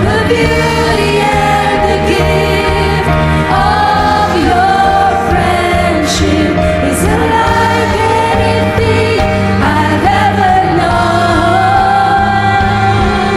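Live worship band music with singing, full and steady, the sung line rising and falling over sustained chords.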